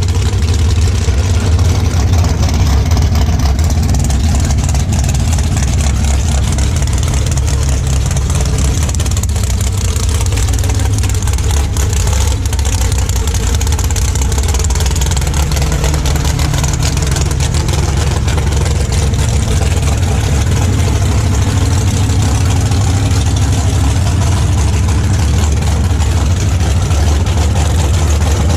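Drag racing car engine idling, a steady low rumble with no revving.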